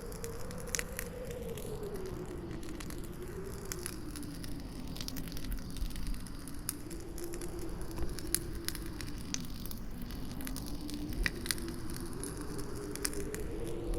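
Wood campfire crackling, with frequent sharp pops scattered irregularly, over a howling wind whose pitch slowly rises and falls.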